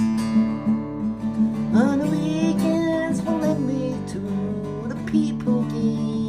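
Acoustic guitar strummed in a steady chord pattern. About two seconds in, a voice comes in singing a sliding, wordless-sounding melody over it, which pauses and starts again near the end.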